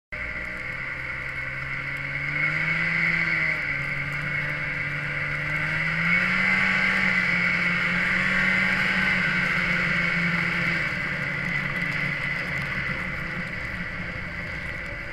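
A vehicle engine revving under load, its pitch climbing about two seconds in, dipping, climbing higher around six seconds and easing off later, under a steady rushing hiss of snow spray and wind.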